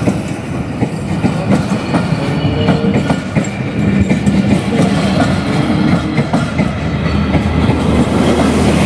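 Pakistan Railways passenger coaches rolling past a platform, their wheels clattering steadily over the rail joints in a repeated clickety-clack.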